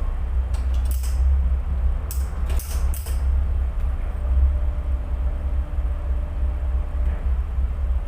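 Tugboat engine running with a steady, heavy low rumble, with a few sharp clicks and knocks in the first three seconds.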